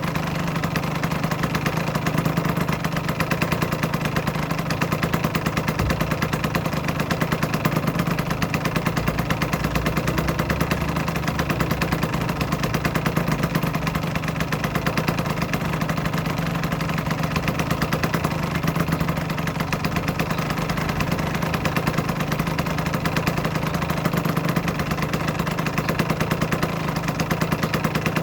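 Aprilia RS125's single-cylinder two-stroke engine idling steadily at an even speed.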